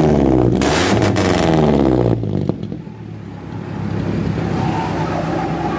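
Suzuki Futura injection's four-cylinder engine revved through an HKS Titan racing exhaust wrapped with monel pipe wrap, pitch rising and falling for about two seconds, then dropping back to a steady idle.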